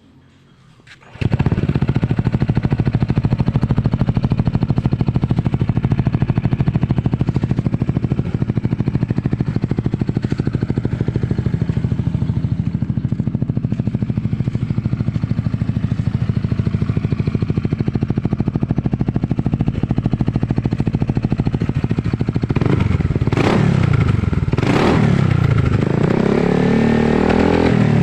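Honda PCX 160 scooter's single-cylinder engine starting about a second in and idling steadily through an aftermarket stainless-steel exhaust, then revved in several throttle blips near the end.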